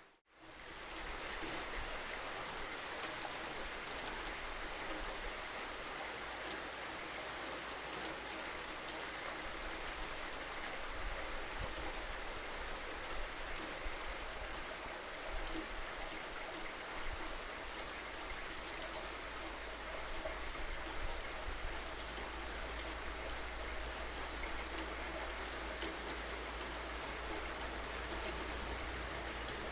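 Steady rain falling, a continuous even hiss, with a momentary drop-out right at the start.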